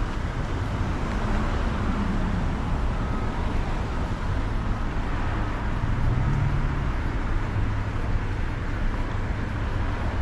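Steady city street traffic: cars and other vehicles running and passing, a continuous low rumble of engines and tyres.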